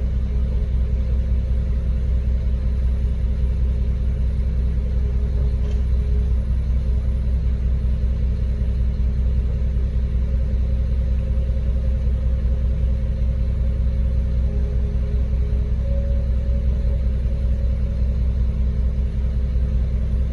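Ready-mix concrete mixer truck's diesel engine running steadily through a pour, deep and unchanging, with a faint steady hum above it.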